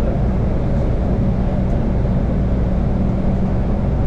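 Steady low rumble and hum of a moving vehicle.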